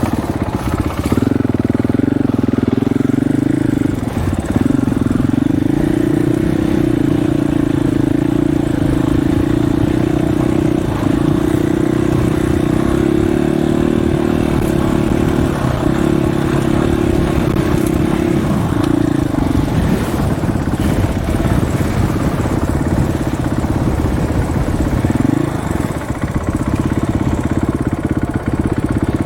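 Dirt bike engine running under way at a fairly steady pitch. About two-thirds of the way through the note drops and wavers as the throttle eases, and it briefly rises again near the end.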